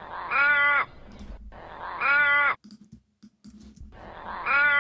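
Australian raven calling: three drawn-out caws, each rising slightly and falling again in pitch, spaced about a second and a half to two seconds apart.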